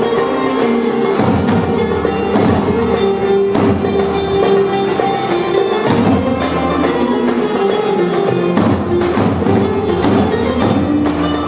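Live Turkish folk music: a Muğla-region türkü performed by a band, with a steady melody and regular percussion strokes.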